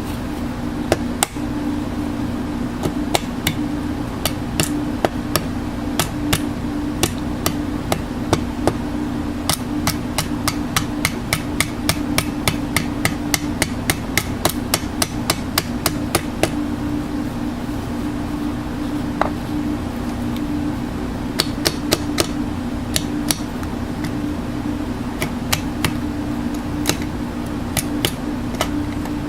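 A hammer striking metal repeatedly, in a run of about three blows a second near the middle and in scattered groups elsewhere, over a steady machine hum.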